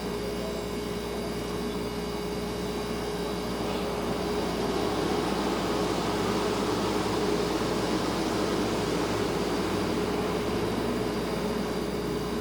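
Refrigerator running with a steady hum over a soft hiss. It grows slightly louder for a few seconds partway through.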